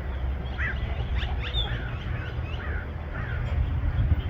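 Small birds chirping: a string of short, quick falling chirps, several a second, over a steady low rumble.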